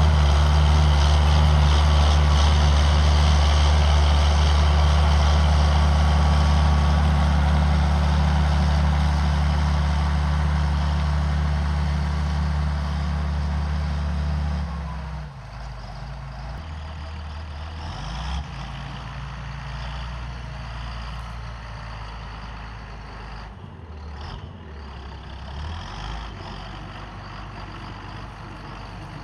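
John Deere 7800 tractor's six-cylinder turbo diesel running steadily under load while pulling a disc harrow. It fades slowly and then drops off sharply about halfway through, leaving a quieter, uneven engine sound.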